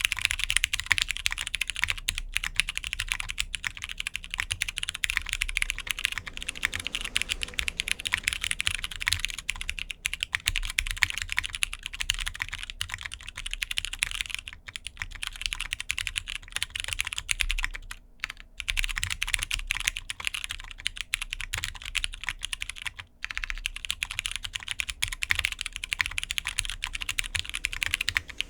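Fast continuous typing on a mechanical keyboard with broken-in Cherry MX Brown tactile switches on a polycarbonate plate, with GMK keycaps: a dense patter of light keystroke clacks, with a few brief pauses.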